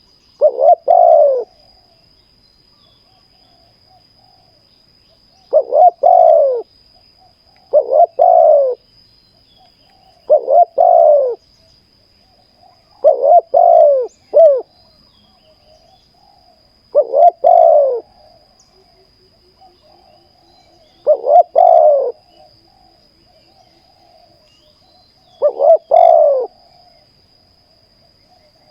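Spotted dove cooing: eight short phrases of two or three coo notes each, one every few seconds.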